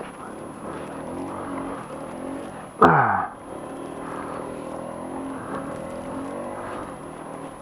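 Small single-cylinder engine of a 2007 Honda Ruckus scooter running steadily while riding in snow. About three seconds in there is a sudden loud knock with a short rush of noise and a sharply falling tone.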